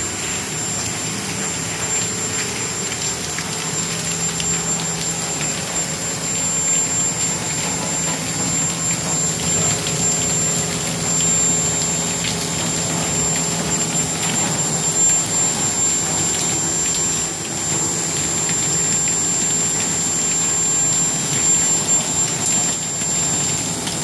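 Rain falling on the roof of a steel shop building, heard from inside as a steady rush of noise, with a thin high-pitched whine held steady underneath.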